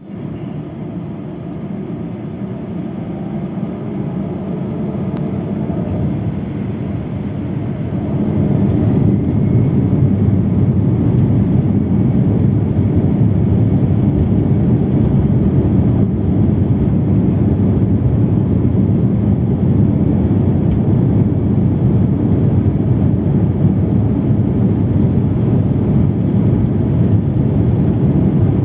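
Passenger airplane's engines during takeoff, heard from inside the cabin. The noise builds over the first eight seconds or so as the engines rise in pitch for the takeoff roll, then holds as a steady loud noise.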